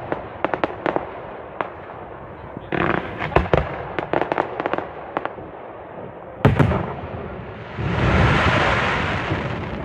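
Fireworks display: a quick run of sharp cracks and bangs from exploding shells, with a loud bang about six and a half seconds in. Then a rushing, hissing crackle swells up and slowly fades over the last two seconds.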